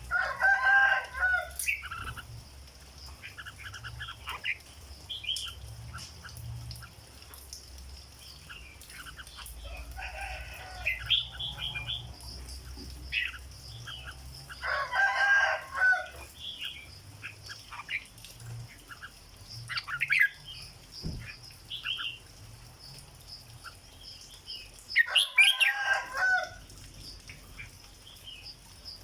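Red-whiskered bulbul chirping and giving short song notes. Four louder, drawn-out calls of about a second and a half each stand out: near the start, about ten and fifteen seconds in, and near the end.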